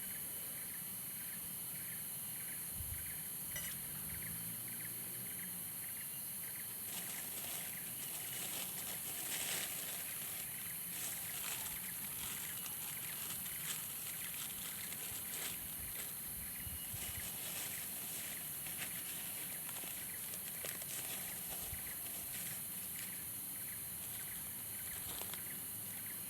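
Outdoor ambience: a steady high hiss with a regular pulsing call about twice a second. Through the middle, scattered taps and drips join in.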